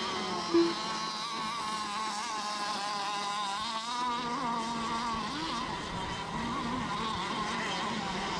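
Several radio-controlled racing boats running at speed, their motors giving a high, wavering whine that rises and falls as they circle the course. A short loud beep sounds about half a second in.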